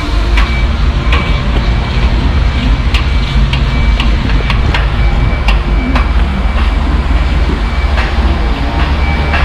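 A heavy truck's diesel engine running with a steady low rumble, and light clicks and rattles scattered through it.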